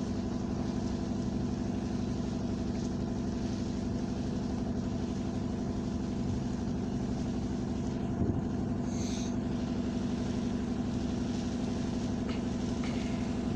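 Engine running steadily at an even speed, with a single short knock about eight seconds in.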